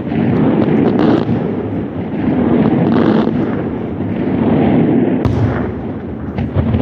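Fireworks display going off in a loud, dense barrage of overlapping bangs that swells and eases every second or two, with a sharp crack about five seconds in.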